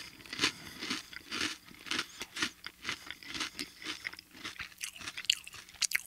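A person chewing a crunchy toasted snack close to the microphone: steady crunches about twice a second, with a couple of sharper, louder crunches near the end.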